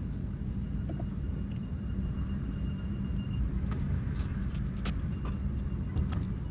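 Steady low rumble, with a few light clicks and taps in the second half.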